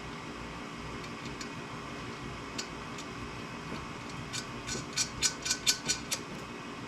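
Steady fan-like hum, with a quick run of about seven sharp clicks, roughly four a second, near the end.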